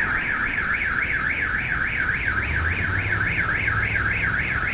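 Car alarm warbling, its tone sweeping rapidly up and down about five times a second.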